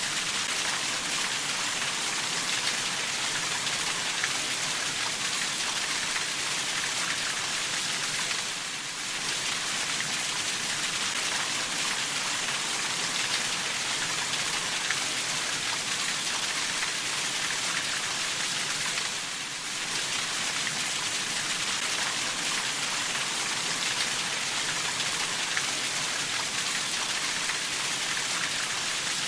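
Steady rainfall, a dense even hiss of drops that eases briefly twice before returning to the same level.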